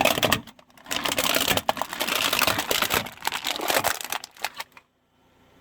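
Brittle objects crunching and crackling as a car tyre crushes them: a dense rattle of small cracks, a brief pause, then about three and a half seconds more of crackling that stops abruptly.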